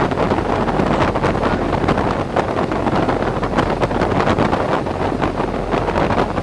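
Wind buffeting the microphone aboard a tour boat under way, a loud, constant rough rush, over a steady low drone.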